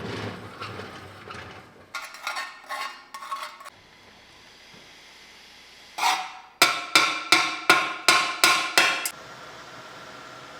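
A hammer striking metal: a few ringing blows about two seconds in, then a quick run of about eight sharp, ringing blows from about six to nine seconds in.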